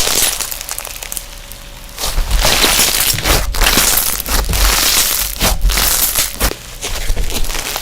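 Slime being squeezed and pressed by hand, giving a dense run of crackling, crinkly pops; it grows louder about two seconds in and eases off near the end.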